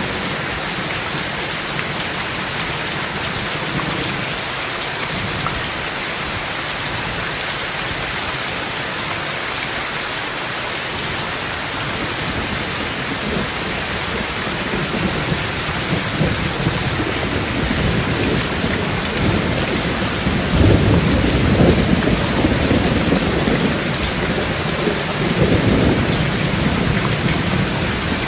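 Heavy rain falling steadily, with thunder rumbling low that builds over the second half and swells loudest about two-thirds of the way through and again near the end.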